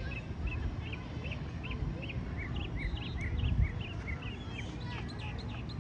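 A bird calling over and over, a quick run of short chirps, about two or three a second, over a low steady rumble.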